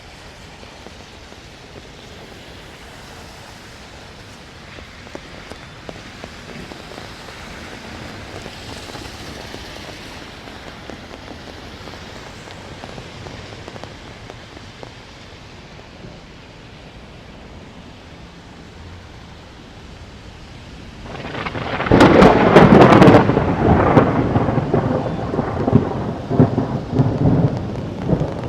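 Steady rain falling, then a close thunderclap about three-quarters of the way through: a sudden loud crackling crash that keeps rumbling afterwards.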